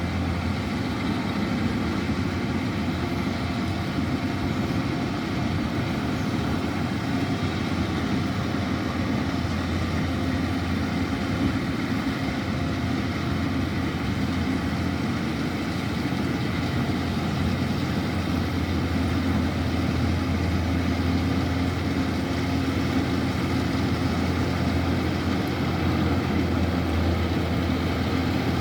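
Kubota DC-105X rice combine harvester running steadily: a constant low diesel engine hum under a dense, even machinery din, with no change in pace.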